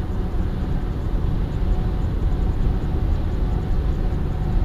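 Steady engine and road noise of a moving car, heard from inside the cabin by a dash cam: an even low rumble with no distinct events.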